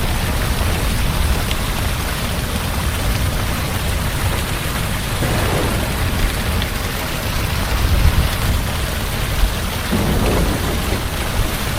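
Heavy rain falling steadily, with a low rumble of thunder underneath that swells about eight seconds in.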